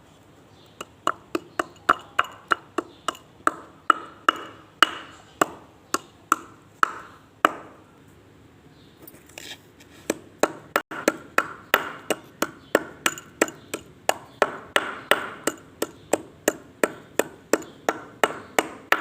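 Slate pencil being crunched between the teeth: sharp, crisp crunches about three a second, with a pause of a couple of seconds in the middle.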